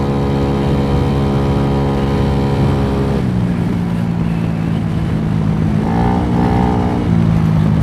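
Dongfang DF50SST scooter engine with an 88cc big bore kit, running steadily at high revs while cruising; the pitch drops a little about three seconds in. The revs are higher than the rider wants, a sign that the 6.5 g variator sliders are too light.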